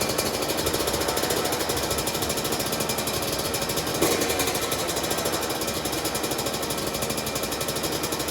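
Freshly rebuilt 2001 Yamaha YZ125's 125cc two-stroke single-cylinder engine running at idle with a fast, even popping beat, with a sudden jump in loudness about four seconds in.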